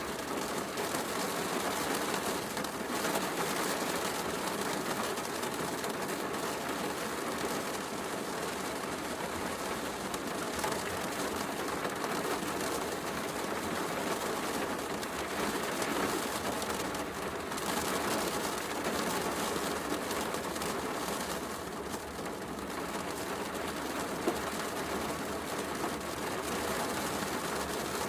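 Steady heavy rain with a wood fire crackling, and a single sharp click near the end.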